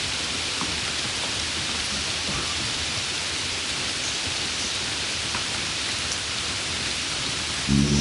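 Steady, even hiss like rain falling. Near the end a louder, low, pitched sound begins.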